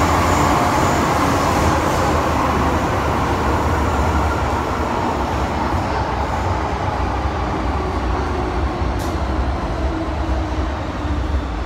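Hong Kong MTR Island Line M-Train electric multiple unit running on the track: a steady rumble with rail noise that gradually eases through the stretch.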